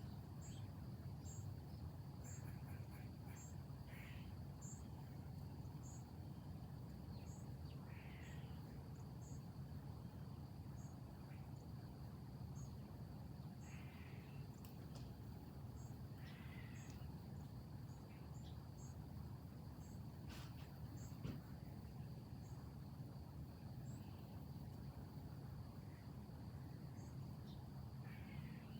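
Outdoor insect chorus, crickets or similar: a steady high drone with short high chirps repeating about once or twice a second. A few brief bird-like calls come through now and then, over a steady low rumble.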